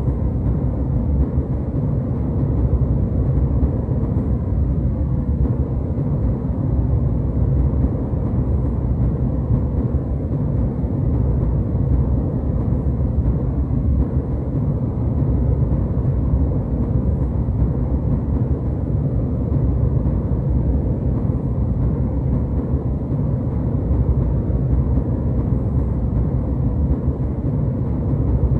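Airliner cabin noise in flight: a steady, deep jet-engine and airflow drone, even and unchanging.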